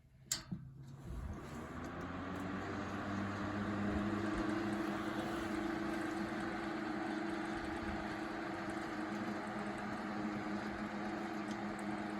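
A click, then a small FE-20M two-speed table fan motor spinning up to high speed and running steadily. It gives a steady hum with a rush of air from the blades.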